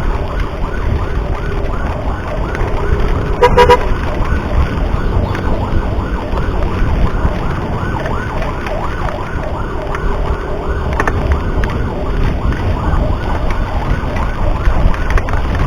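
Ambulance siren following close behind, running in a fast yelp, rising and falling about three times a second, over the steady low rumble of wind and road noise from a moving motorbike. A short horn blast sounds about three and a half seconds in.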